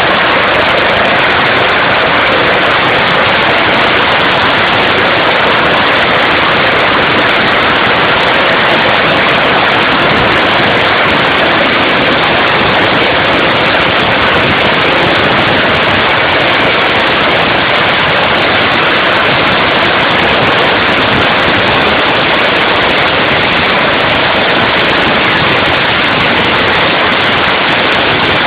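Police rescue helicopter running close by: a loud, steady rushing noise of engine and rotor wash, without a break.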